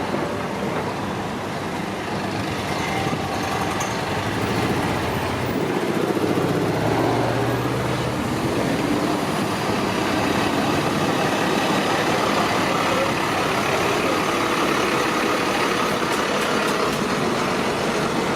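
Street traffic: motor vehicles running by steadily, with one engine passing close about six to eight seconds in.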